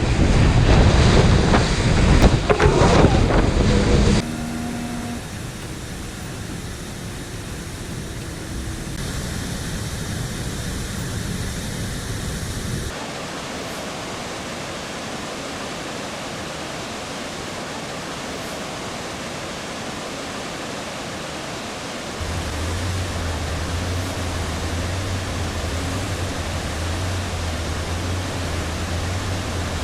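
Steady rushing noise of falling and churning water, with wind buffeting the microphone. It is loudest for the first four seconds and changes abruptly at cuts about 4, 13 and 22 seconds in, with a low hum added for the last part.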